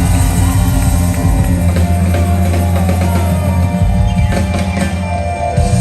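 Loud live band music with a drum kit, heavy bass and melody over a steady beat.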